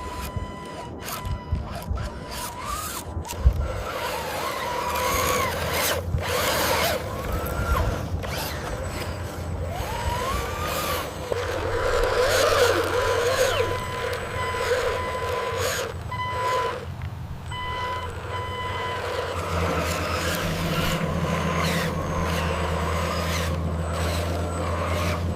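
Radio-controlled concrete mixer truck running, its motors giving short whines that rise and fall. A steady low hum sets in about three-quarters of the way through.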